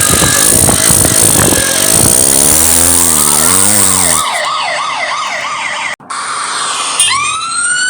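Cartoon vehicle sound effects: a motor revving with a wavering pitch, then a police siren in a fast up-and-down wail. The sound cuts out briefly about six seconds in, and a siren winds up rising in pitch near the end.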